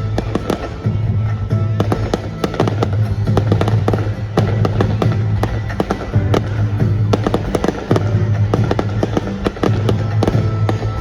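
Fireworks display: many bangs and crackles of bursting shells in quick, irregular succession, over music with a steady bass line.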